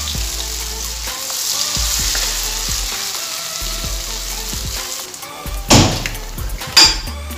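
Akara (bean fritters) deep-frying in hot groundnut oil, a steady sizzle. Near the end come two loud knocks about a second apart.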